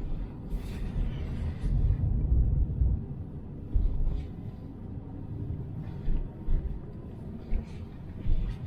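Low, steady rumble of a Toyota Sienna all-wheel-drive minivan driving, heard from inside the cabin, with a few short knocks and clicks.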